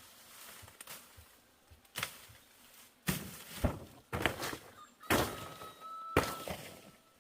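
About six dull thuds at uneven intervals, closer together in the second half, with a faint thin whistle in the background near the end.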